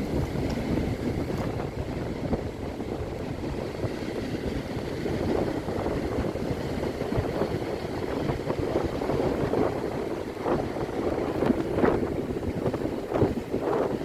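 Sea water splashing and washing, with wind buffeting the microphone; the splashes come more often in the second half.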